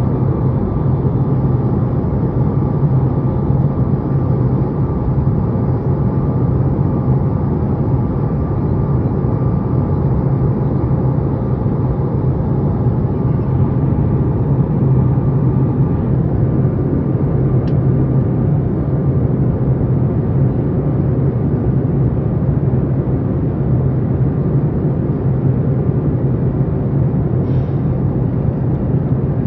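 Steady cabin noise of a Boeing 737 MAX 8 airliner in flight: the low drone of its CFM LEAP-1B turbofan engines and airflow, with a steady low hum.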